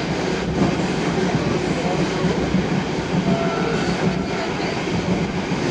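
Diesel passenger train running along the track, a steady rumble and rattle of carriages and wheels on the rails.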